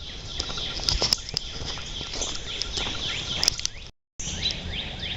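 Birds chirping: many short, falling chirps overlapping, with a few sharp clicks among them. The sound cuts out completely for a moment about four seconds in.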